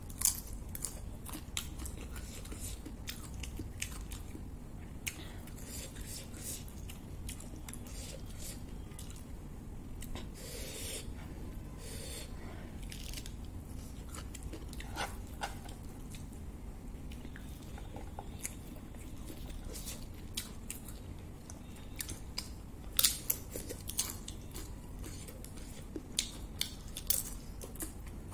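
Close-miked eating: crunching bites of fried papad and chewing of rice and curry, with many scattered sharp clicks, a few of them loud, over a low steady hum.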